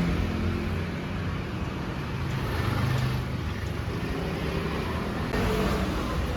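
Steady rumble of a moving vehicle, with a low hum.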